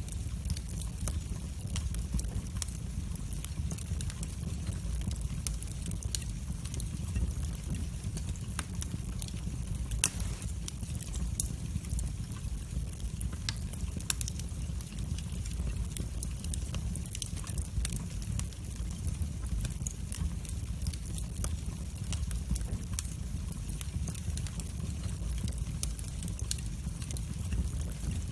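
Wood fire burning in a fireplace: a steady low rumble with frequent sharp crackles and pops, a louder pop about ten seconds in.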